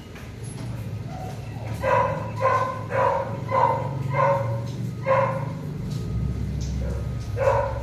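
A dog barking: a run of about six barks roughly half a second apart, then two more near the end, over a steady low hum.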